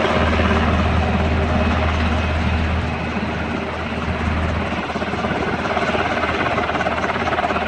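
Military helicopter running loud and steady, its rotor and engine noise filling the air with a fast pulsing beat. The deep low rumble is strongest for the first four seconds or so, then eases.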